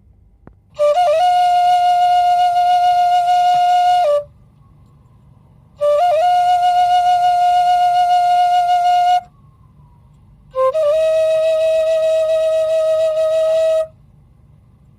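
Slow, mournful music on a flute-like wind instrument: three long held notes of about three seconds each, each sliding up briefly into its pitch, with pauses between them. The third note sits a little lower.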